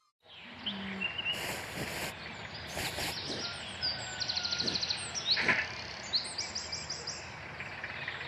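Outdoor ambience of birds chirping over a steady background hiss, with several quick high trills of repeated notes.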